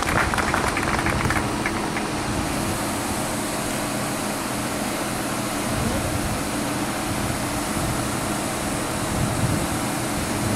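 Car engines idling in a line of waiting cars, a steady hum with outdoor background noise.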